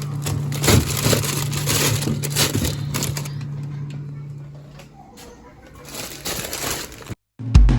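Plastic packaging of frozen food crinkling and plastic bins knocking as a freezer is stocked, over a steady low hum. The sounds cut off abruptly near the end, and a loud drum beat starts at the very end.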